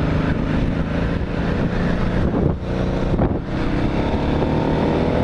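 Motorcycle engine running on the road with wind noise on the microphone; the engine note dips briefly twice midway, then climbs steadily in pitch near the end as it accelerates.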